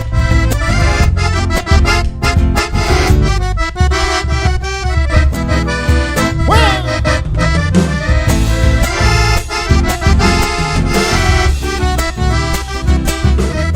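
Live chacarera played instrumentally, with the accordion carrying the melody over a driving bass and drum beat.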